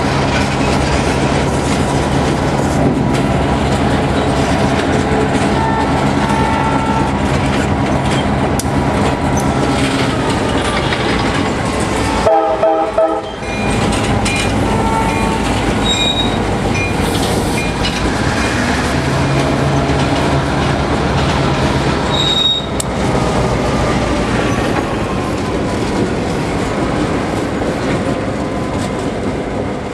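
Diesel-hauled freight train rolling past slowly, wheels clacking over rail joints and squealing. A short horn blast sounds about twelve seconds in.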